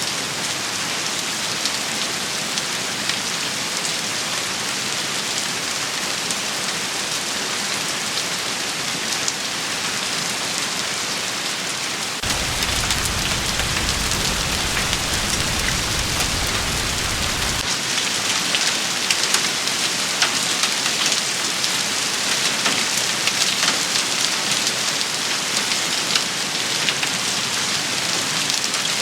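Heavy rain shower pattering densely on surfaces, a steady hiss full of fine drop clicks. About twelve seconds in it grows louder, and a low rumble comes in abruptly and cuts off about five seconds later.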